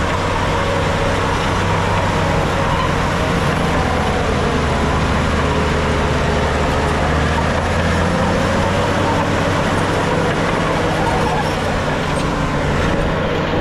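Heavy diesel earthmoving machinery running steadily under work, a low engine drone with a dense mechanical clatter over it; the low drone eases about eight seconds in.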